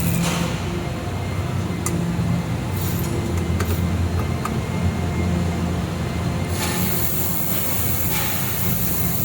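Air-cooled handheld laser welder running with a steady low machine hum. A high hiss over it stops about half a second in and comes back after about six and a half seconds.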